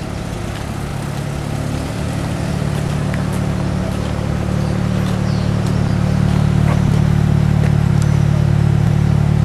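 Car engine running close by at a steady pitch, a low drone that grows gradually louder.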